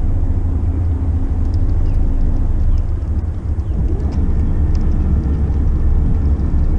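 Steady low rumble of a motor yacht's engines running as the boat backs in to a dock, with a faint steady tone joining about four seconds in.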